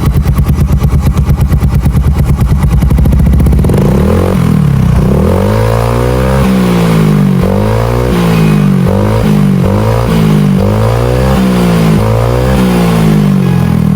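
Automatic scooter with a K2 Speed aftermarket racing exhaust, idling with a steady pulse for the first few seconds, then revved in repeated throttle blips, the pitch rising and falling about once a second. The exhaust note is deep and bassy.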